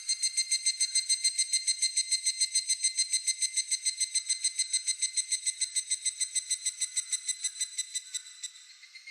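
Higurashi (evening cicada) calling its rapid, ringing kana-kana-kana song, about eight pulses a second, which fades near the end.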